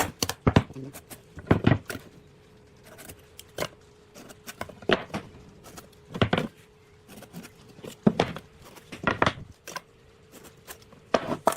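A series of irregular sharp knocks and taps, several seconds apart and unevenly spaced, over a faint steady hum.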